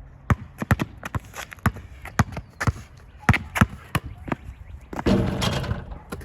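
Basketball being dribbled hard in a ball-handling drill, the bounces coming two to three a second at an uneven pace. Near the end there is a longer, rougher sound lasting about a second.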